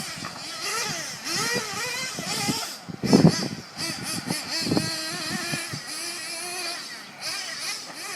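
Nitro engine of a Team C Stoke N 1/8-scale off-road buggy, revving up and down as it is driven around the track, its high-pitched whine rising and falling. It is loudest about three seconds in and again near five seconds.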